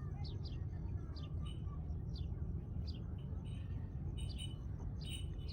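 Small birds chirping: short, high chirps that drop in pitch, repeated irregularly throughout, over a steady low rumble.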